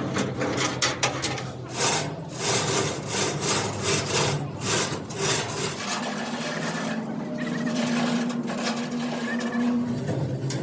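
Repeated rasping strokes of a hand tool working wood or metal, a few strokes a second, easing off about halfway through into a steadier hum.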